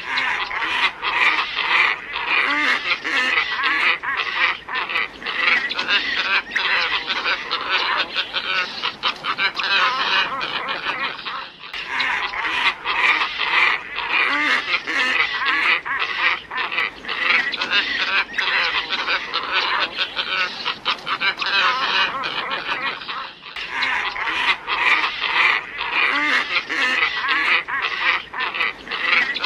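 Glossy ibis flock calling: a dense, continuous chorus of harsh honking calls. It is a lure recording that restarts abruptly about every 12 seconds.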